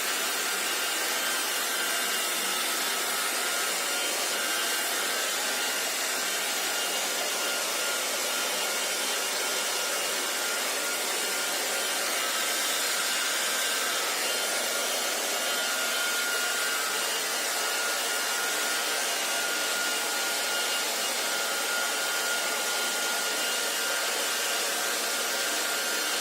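Hair dryer running steadily: an even blowing hiss with a faint, steady whine from its fan motor.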